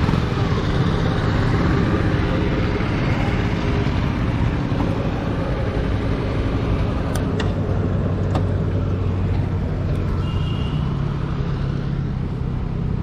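Motor vehicle engines running steadily in road traffic, with a few short clicks and a brief high beep about ten seconds in.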